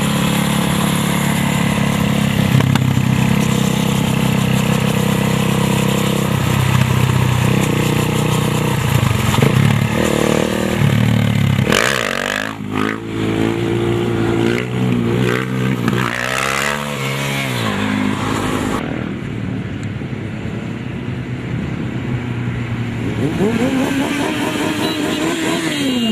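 Motorcycle engines running, then revving with the pitch rising and falling repeatedly; near the end one engine's pitch rises and then falls again.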